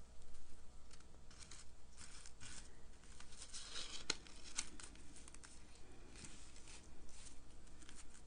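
Paper and cardstock die-cut pieces being handled and shifted about on a craft table: intermittent soft rustling, with a sharp tap about four seconds in.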